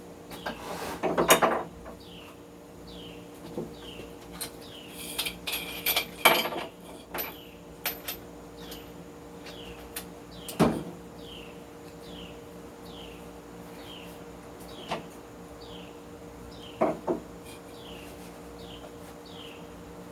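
Scattered metal clinks and knocks of tools and a cleaver's metal collar being handled and set up on a piece of tubing and a hammer, loudest about a second in and again around six and eleven seconds. Behind them a bird chirps steadily, a short falling chirp about every three-quarters of a second.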